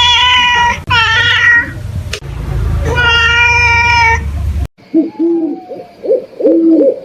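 A cat meowing loudly three times in long, drawn-out meows. Partway through, the sound cuts abruptly to a series of short, low hooting calls repeated in quick succession.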